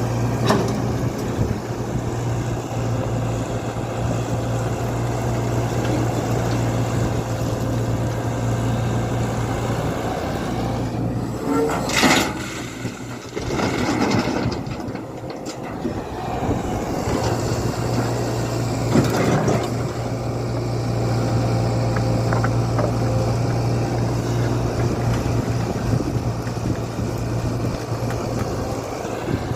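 Tata Hitachi EX120 excavator's diesel engine running with a steady hum while it works. Loud clattering crashes come about twelve seconds in and again near nineteen seconds. The engine hum drops away after the first crash and returns a few seconds later.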